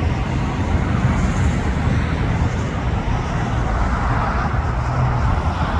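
Boeing 787 Dreamliner's jet engines on landing, a steady loud rumble.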